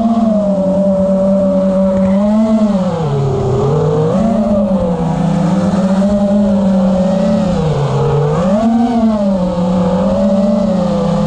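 FPV quadcopter's four T-Motor F60 Pro brushless motors spinning Gemfan tri-blade propellers, a steady buzzing hum whose pitch dips and swells smoothly a few times as the throttle changes.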